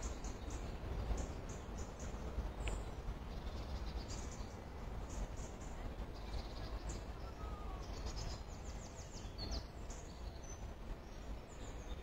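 Small birds chirping high and sporadically, with a quick run of repeated high notes about eight seconds in, over a steady low rumble on the phone's microphone.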